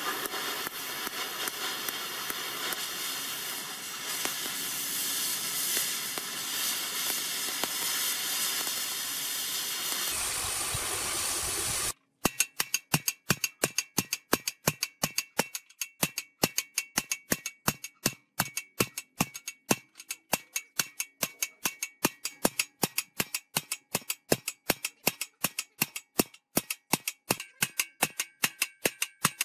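Metalworking on a rusty steel concrete mixer: a steady hissing rush for about twelve seconds, then, after an abrupt cut, rapid sharp metal strikes at about three a second, with a ringing tone.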